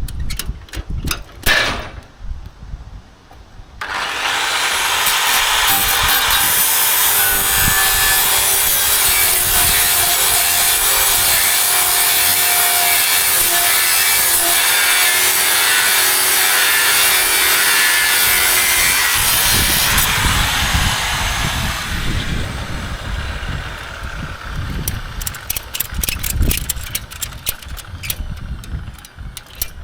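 A handheld power tool working steel. It starts about four seconds in, runs steadily with a harsh, gritty sound for around fifteen seconds, then winds down. Scattered knocks and clatter come before and after it.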